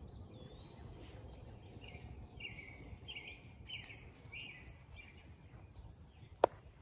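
A songbird singing a series of short, down-slurred chirps, about one every two-thirds of a second, over quiet woodland background. A single sharp snap near the end.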